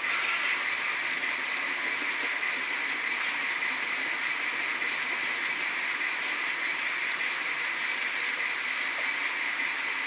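H0-scale model trains running on the layout: a steady whir of small electric motors and metal wheels rolling on the rails.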